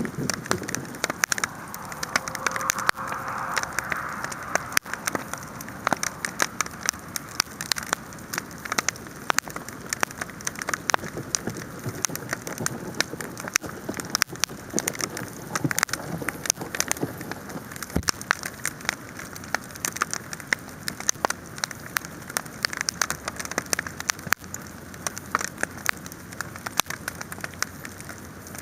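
Wood bonfire burning, crackling with a dense stream of sharp pops and snaps over a steady hiss.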